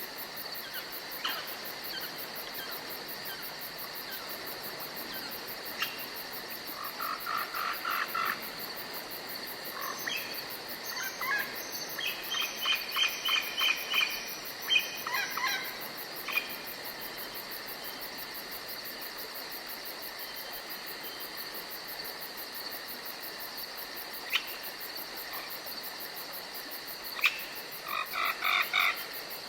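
Steady high insect chirring, with three bouts of rapid pulsed animal calls a few seconds long rising over it.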